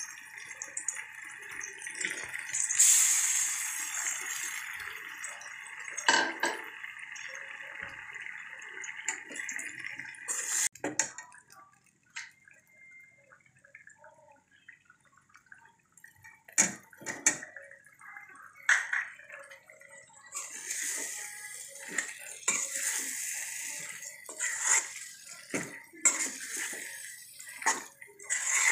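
Chicken frying in masala in a steel kadai, sizzling steadily, loudest about three seconds in. A metal ladle scrapes and clinks against the pan as it is stirred. The sizzle drops away for a while in the middle and comes back in the last third with more stirring.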